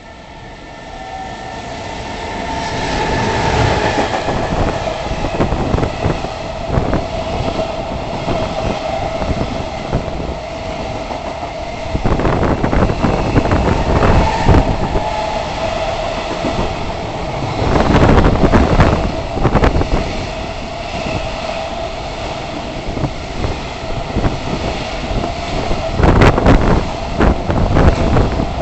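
Two freight trains hauled by EF210 electric locomotives passing at the same time. It grows loud over the first few seconds, then the wagon wheels clatter over the rail joints in repeated clusters for the rest of the stretch, over a steady whine.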